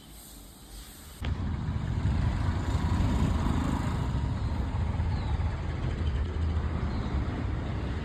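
Honda H'ness CB350 motorcycle's single-cylinder engine running with a steady low rumble. The rumble comes in abruptly about a second in, after a faint hiss.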